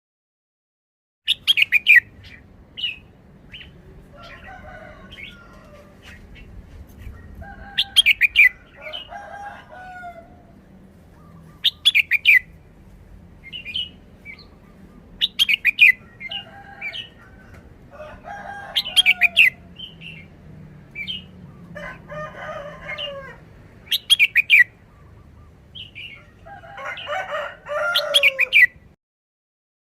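Red-whiskered bulbul singing: short, loud, bright phrases repeated every three to four seconds, with quieter warbling between them.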